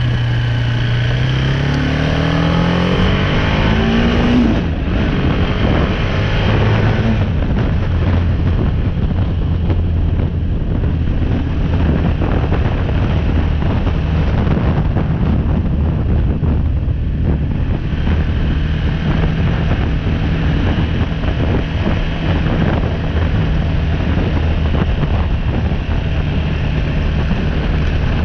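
BMW G310R's single-cylinder engine pulling away from idle: the engine note rises, drops at a gear change about four seconds in, rises again, then settles into a steady cruise. Wind noise on the helmet or action-cam microphone fills the rest.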